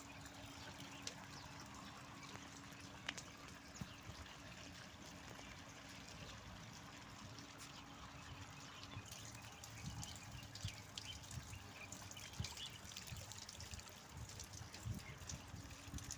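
Faint outdoor ambience of water trickling, with scattered short chirps of small birds.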